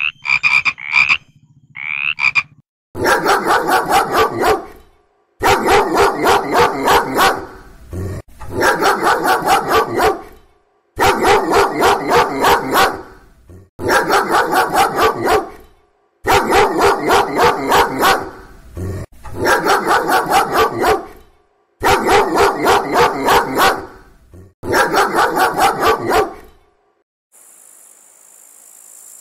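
An animal calling again and again in bouts of about two seconds, each bout a rapid run of harsh pulses, after a few short high chirps at the start.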